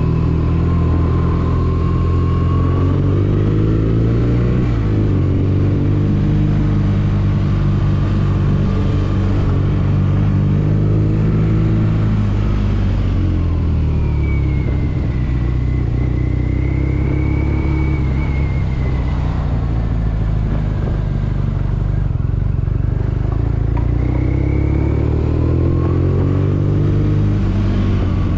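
BMW R nineT's 1170 cc air/oil-cooled boxer twin running at low road speed, its note rising and falling repeatedly as the bike speeds up and slows in traffic.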